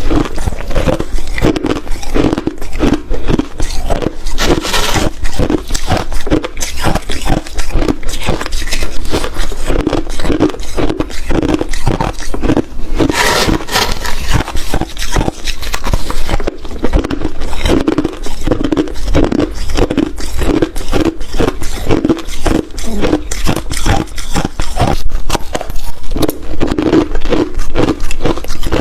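Ice being chewed and crunched close to the microphone, bite after bite in a steady rhythm, with one louder crunch about halfway through.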